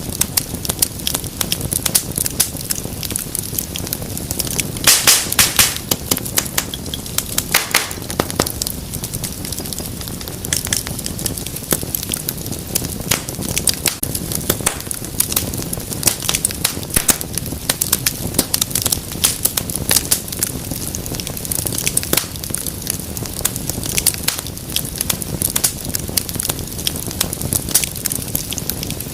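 Wood fire crackling steadily with sharp pops over a low rumble of flames, with a run of louder pops about five seconds in.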